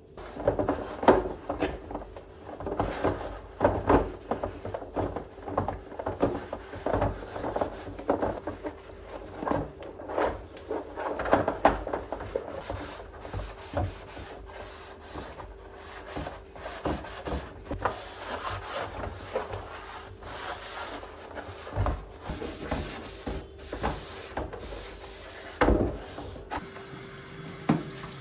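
Repeated, irregular scrubbing and rubbing strokes during cleaning, with a faint steady hum beneath.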